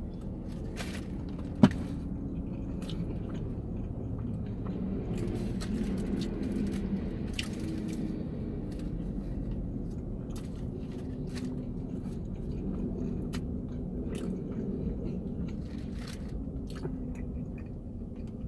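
A man biting into and chewing a mushroom Swiss burger with gravy: soft wet chewing with small mouth clicks. There is a single sharp click about two seconds in, over a steady low rumble.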